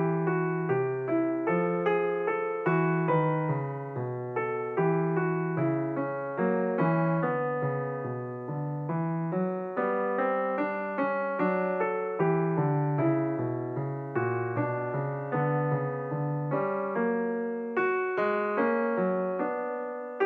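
Background piano music: a steady run of struck notes about two a second over a lower bass line.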